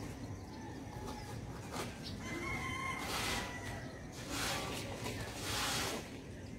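One long, drawn-out bird call about two seconds in, over three short rushes of noise in the second half.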